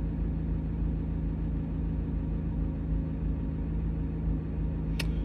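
Corvette C8 Z06 engine running steadily, heard from inside the cabin as an even low drone with a constant pitch. A single sharp click near the end.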